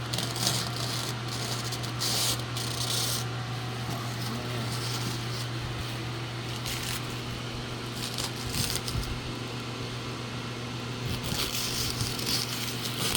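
A 2013 Honda CRF50 dirt bike's small single-cylinder four-stroke engine idling steadily. Short hissy noises come in briefly a couple of seconds in and again near the end.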